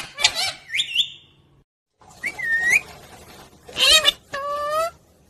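Pet parrot calling: a few quick whistled calls with sharp upward and downward pitch glides, a brief break, then a bent whistle and, near the end, two loud, harsh-edged calls.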